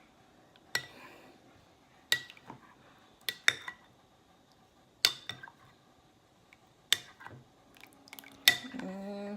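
A spoon stirring melted butter and seasonings, clinking against the side of the dish with sharp, ringing knocks every second or two.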